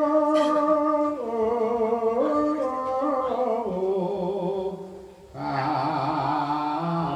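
Sholawat devotional chanting: a voice sings long held notes that waver and slide between pitches. The singing dips briefly about five seconds in, then comes back fuller.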